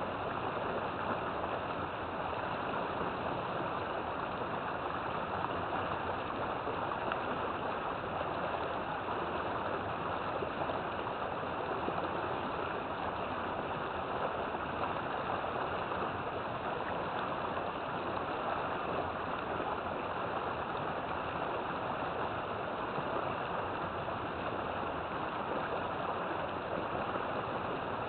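River water flowing steadily, an even rushing with no change.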